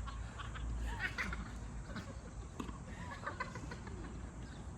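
Sounds of a tennis game: a few sharp knocks of the ball on racket or court, with faint voices and short chirping squeaks in the background.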